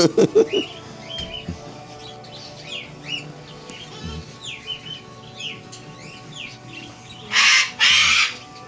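Caged pet-store birds chirping repeatedly in short rising and falling notes, with two loud, harsh squawks about seven and a half seconds in.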